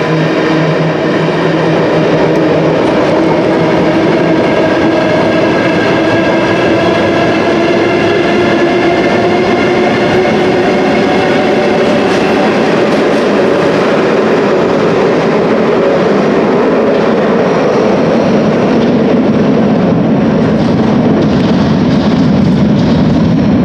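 A London Underground battery-locomotive engineering train of wagons running through a tube station on the rails: a steady, loud rumble with a whine of several tones, drifting slowly in pitch.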